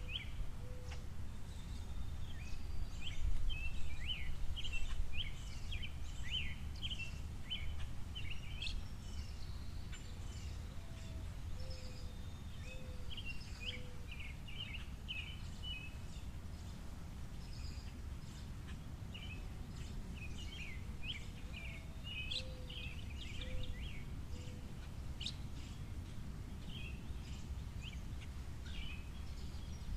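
Small birds at a seed feeder chirping and twittering in quick clusters, with a few runs of low short notes, over a steady low rumble of background noise.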